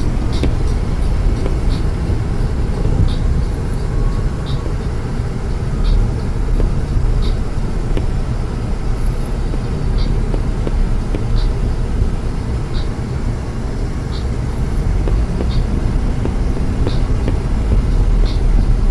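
Steady low rumble of a running vehicle, with a faint short tick repeating about every one and a half seconds.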